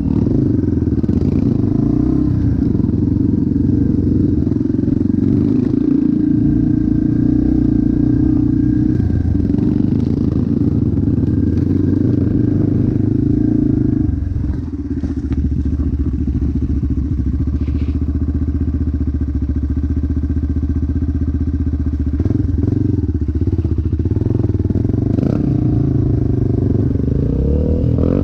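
Motocross motorcycle engine running steadily. Its pitch drops about halfway through, and there are a few brief revs near the end.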